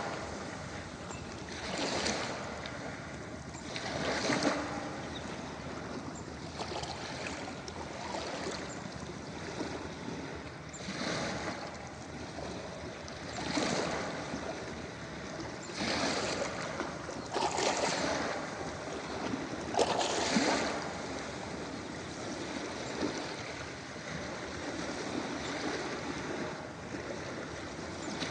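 Ocean waves breaking and washing on a beach: a steady hiss of surf with irregular swells every few seconds as waves break.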